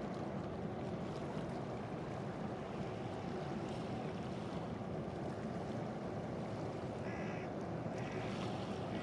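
Steady low rumble of wind and water at the harbour edge. A bird calls four times in short notes near the end.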